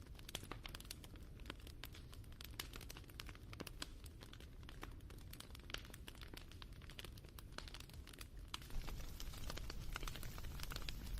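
Wood fire crackling: irregular sharp snaps and pops over a low rumble, with the fire's hiss growing louder about nine seconds in.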